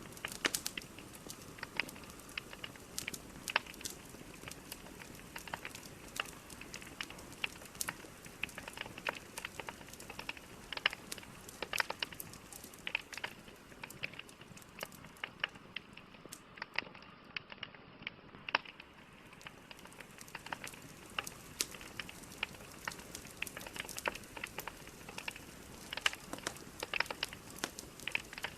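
Logs burning in a fireplace: frequent, irregular sharp crackles and pops over a steady hiss of flames.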